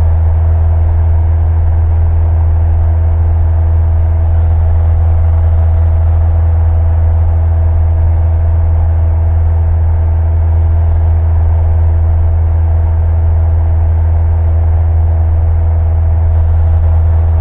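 Cessna 172 Skyhawk's piston engine and propeller droning steadily in flight, heard from inside the cockpit: a loud, even low hum with steady overtones that doesn't change.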